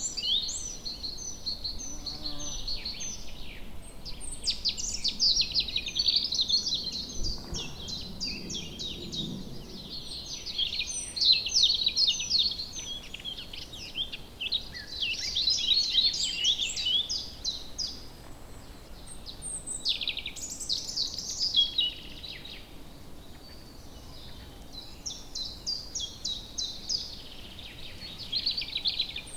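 Woodland birds singing: several songbirds overlapping in busy, high-pitched song phrases of quick repeated notes, with short lulls.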